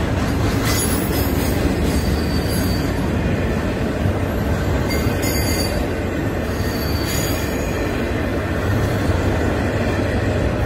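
Florida East Coast Railway intermodal freight train rolling steadily past a grade crossing: a continuous rumble of wheels on rail, with brief high wheel squeals every couple of seconds.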